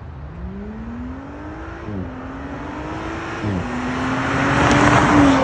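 Audi B9 S4's V6 engine on its stock exhaust accelerating hard, with the pitch rising and dropping sharply twice at gear upshifts, then holding steady as the car drives past, loudest near the end.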